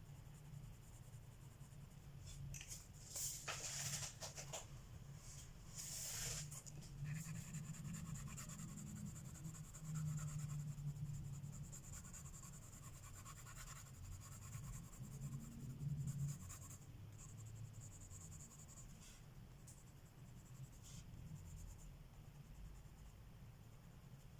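Coloured pencil scratching on paper in repeated shading strokes, with a couple of louder scrapes a few seconds in.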